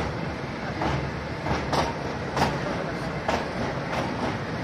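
Kangra Valley Railway narrow-gauge passenger coach running along the track: a steady rumble from the wheels, with sharp clicks at uneven intervals as they pass over rail joints.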